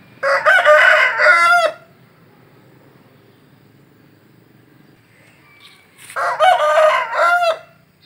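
Rooster crowing twice, each crow about a second and a half long, the second about six seconds in.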